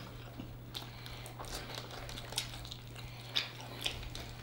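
Close-miked eating: wet chewing, biting and lip-smacking as meat is gnawed off sauced chicken wing bones, in short irregular smacks over a faint steady low hum.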